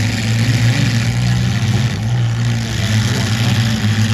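Demolition derby cars' engines running and revving, a loud steady hum that wavers a little in pitch, over the noise of the crowd.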